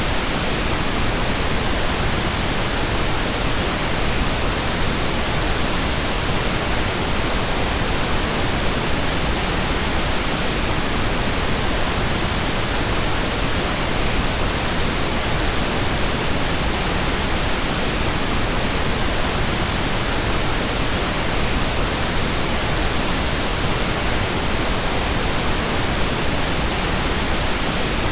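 Steady pink noise: an even, unchanging hiss spread across all frequencies.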